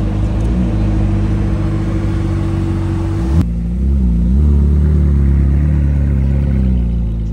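Ferrari 458 Spider's V8 running at a low, steady idle as the car creeps along at walking pace. About three and a half seconds in, the sound turns abruptly deeper and heavier.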